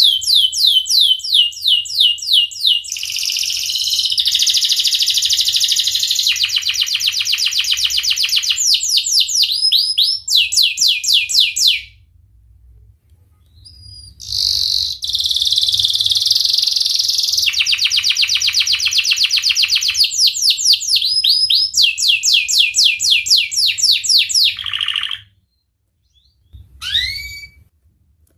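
Domestic canary singing a long song of fast, rolling trills, each phrase a rapid run of repeated notes. It breaks off for about two seconds near the middle, sings on again, then gives a couple of short single chirps near the end.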